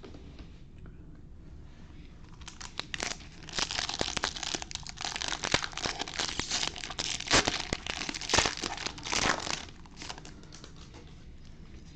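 Foil trading-card pack wrapper being torn open and crinkled: a dense crackling that starts about two and a half seconds in, with sharp crackles, and stops near the end.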